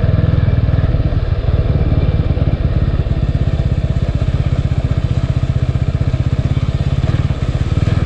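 Motorcycle engine running steadily under way, its exhaust a fast, even pulsing.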